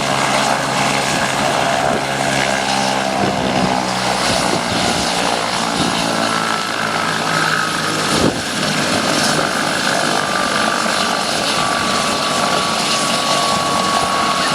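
Aircraft engine noise at an airshow: a steady drone with a low, evenly pitched hum that fades out about four seconds in, then a high whine that slowly falls in pitch.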